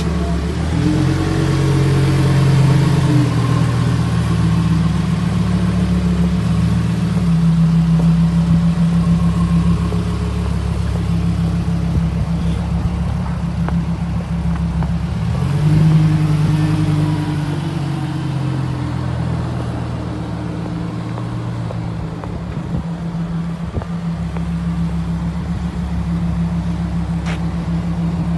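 Lamborghini Huracán Performante's naturally aspirated V10 engine running, with revs rising and settling about a second in and again about sixteen seconds in.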